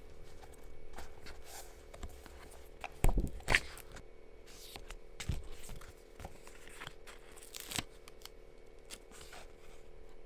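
Small handling sounds: rustling, scraping and light clicks, with two louder knocks about three seconds in, over a faint steady hum.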